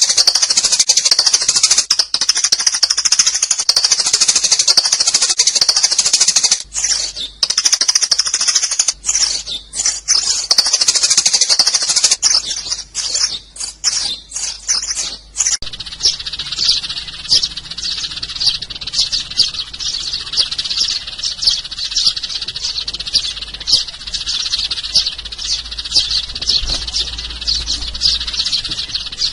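Sparrows chirping in a dense, continuous chatter, as played in a recorded lure call. About halfway through, the chorus switches abruptly to a quicker run of separate short chirps.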